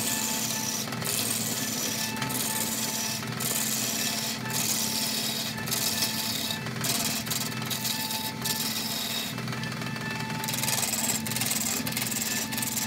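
Wood lathe running with a steel turning tool cutting into a spinning log blank: a hissing scrape of shavings being peeled off over a steady motor hum. The cut comes in strokes broken by short gaps about once a second, with a longer gap about three quarters of the way through.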